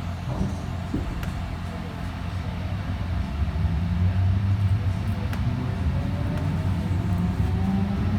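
Light rail train pulling away from a station: a low rumble of running gear that grows louder from about three seconds in, with a motor whine climbing in pitch as it gathers speed.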